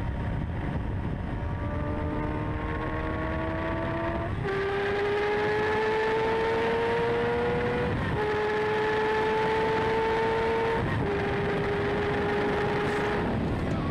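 Yamaha R6's inline-four engine pulling under way, its note climbing slowly and changing pitch with gear shifts about every three to four seconds, under steady wind rush on a tank-mounted microphone.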